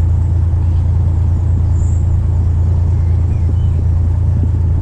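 A narrowboat's diesel engine running steadily under way, a loud low hum with a fast, even pulse.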